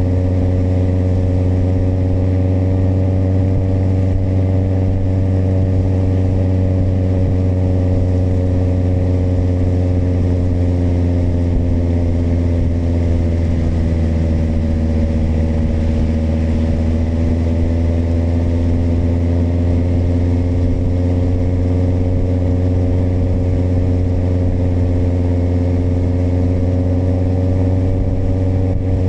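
Kawasaki motorcycle engine running steadily while riding, its revs dipping slightly about halfway through and then climbing back to the same pitch.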